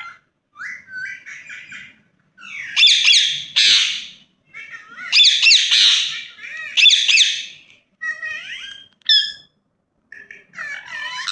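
Ringneck parrot calling: quick chattering notes, then several loud, harsh squawks in bouts, then softer chatter near the end.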